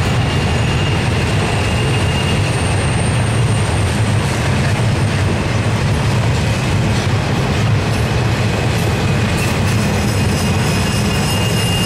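Double-stack intermodal freight cars rolling past close by: a steady rumble of steel wheels on rail, with thin high-pitched wheel squeals that come and go as the cars take the curve.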